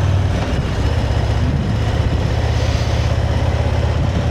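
Motorcycle engine running steadily at a cruise while riding, its low, even pulsing under a constant rush of wind and road noise.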